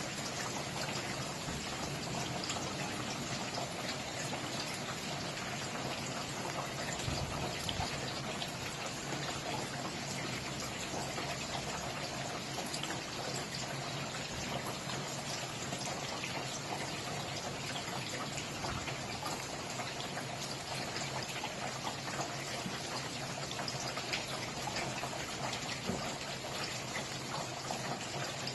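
Steady rain falling: a dense, even hiss with many small drops ticking through it.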